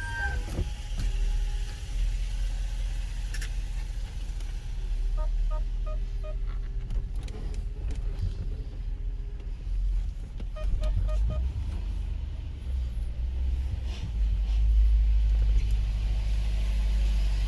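Range Rover Sport's supercharged 5.0-litre V8 idling with a steady low rumble. Two runs of four quick electronic beeps sound over it, about five seconds in and again near eleven seconds.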